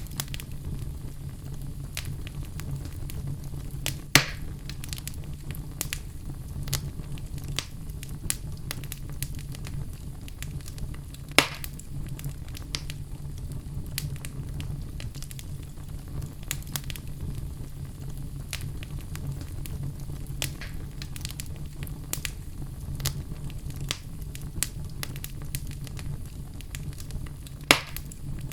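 Wood fire burning in a fireplace with a steady low rumble and frequent crackling, with three louder pops spread through.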